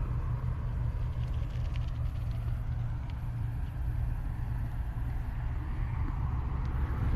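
Distant road traffic: a steady low rumble of road noise.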